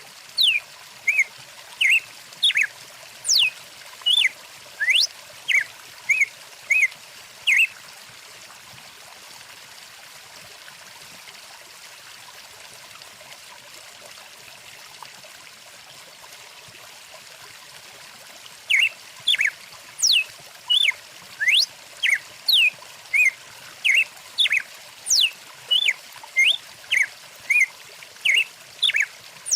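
A songbird calls in quick, repeated chirps and sweeping whistles, about two a second. It falls silent for about ten seconds midway and then starts again. Throughout, a steady trickling stream runs beneath it.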